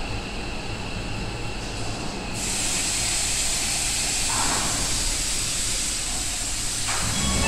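Seibu 40000-series electric train running into an underground station and slowing to a stop, its rumble and thin whine giving way about two seconds in to a steady hiss of air.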